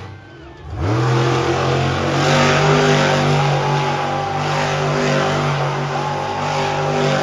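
Monster truck engine revving up sharply about a second in, then held at a steady high pitch for several seconds.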